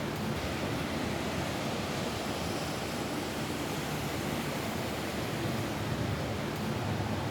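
Steady rain falling on a roof, an even, unbroken rushing noise that is heaviest in the low range.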